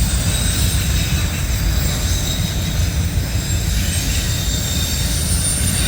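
Loaded autorack freight cars rolling past at track level: a steady rumble with faint, high-pitched wheel squeal.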